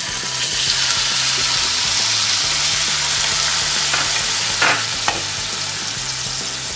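Paneer cubes sizzling as they fry in shallow hot oil in a kadai, the sizzle swelling about half a second in as the cubes are tipped in. Two short knocks about two-thirds of the way through as the wooden spatula pushes the cubes about the pan.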